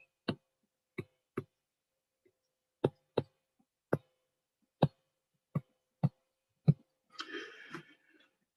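A series of about ten sharp, irregularly spaced taps of a writing tool striking a board as digits are written, followed near the end by a brief softer rustle.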